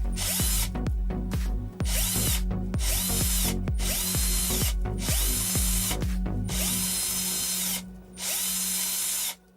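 Electric drill run in short bursts, about nine times, each spinning up with a rising whine and winding down with a falling one, over a steady low hum.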